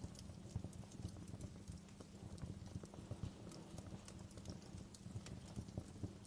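Wood fire burning in a fireplace, crackling with many small irregular pops and snaps over a low rumble of the flames.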